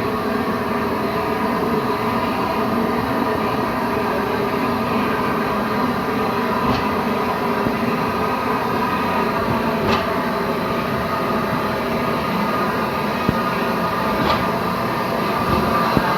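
A standing train's diesel locomotive engine idling with a steady drone, and a few light clicks.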